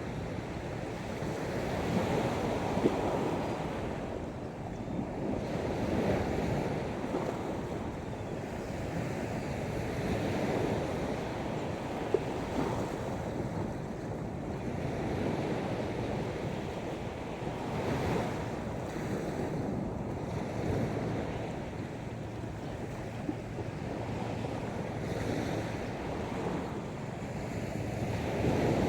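Sea waves washing onto the shore, a steady wash that swells as a wave breaks about every four seconds.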